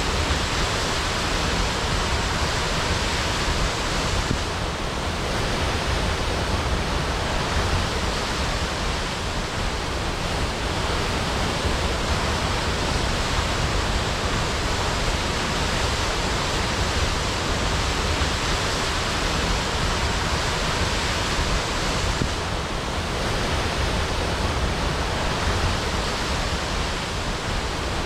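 Waterfall crashing steadily: a continuous dense rush of falling water with a deep rumble underneath.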